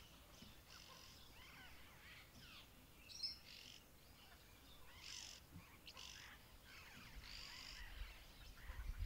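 Several small birds chirping and calling, with many short high calls and quick glides overlapping, one sharper call about three seconds in. A low rumble rises near the end.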